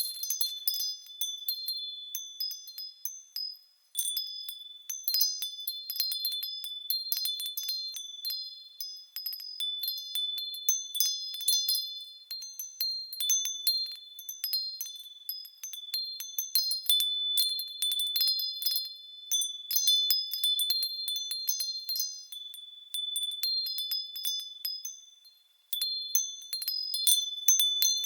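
Japanese wind chimes (fūrin) ringing in the breeze: irregular clusters of high, clear tinkling strikes that ring on. The ringing fades almost away about four seconds in and again near the end before fresh strikes start it up.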